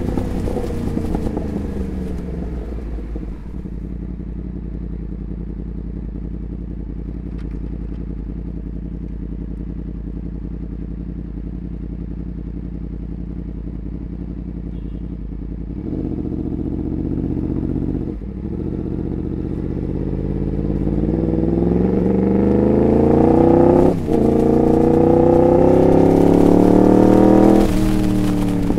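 Motorcycle with a Graves aftermarket exhaust: the engine note falls away, holds steady at low revs, then climbs under acceleration from about halfway. Near the end the revs dip sharply at a gear change, climb again and drop.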